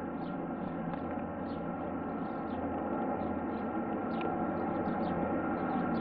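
Aircraft engine drone, a steady hum of several held tones, growing slowly louder as the aircraft approaches. Small birds chirp over it.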